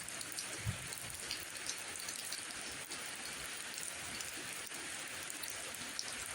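Steady rain: an even hiss of falling rain with scattered individual drops ticking through it.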